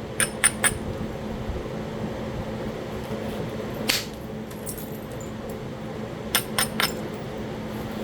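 Percussion flaking of Talahata quartzite: sharp, clicking strikes on the stone, three in quick succession near the start, a single one in the middle and another quick group of three near the end.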